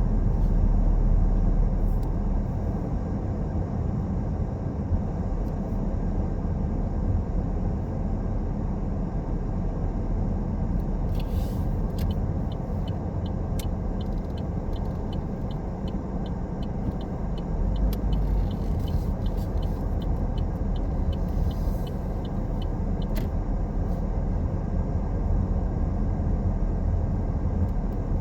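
Car driving along a road, with a steady low rumble of tyres and engine. In the middle, a light, regular ticking of about three a second runs for roughly ten seconds.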